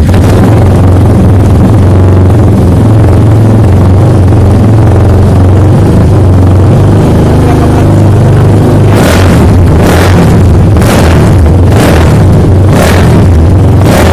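Engine running loudly and steadily, with about one sharp burst a second in the last five seconds.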